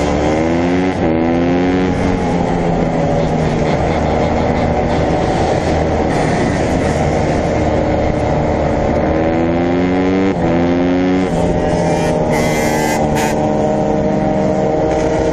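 Dirt bike engines running, with one revving up through the gears: rising revs that drop at each shift. This happens in the first couple of seconds and again about two-thirds of the way through, over a steady rushing noise.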